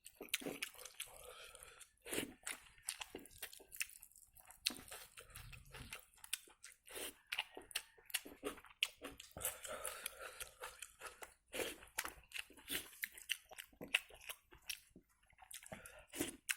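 A person chewing and eating a meal of dal, rice and egg close to the microphone, with many quick, irregular mouth clicks and smacks.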